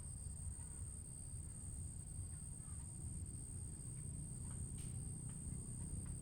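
Quiet outdoor ambience: a low steady rumble and a constant high-pitched whine, with a few faint short chirps and light ticks.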